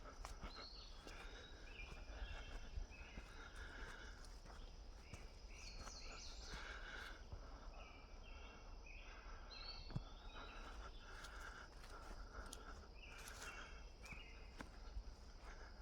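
Faint birdsong: several birds singing short, repeated phrases, over a steady high hum.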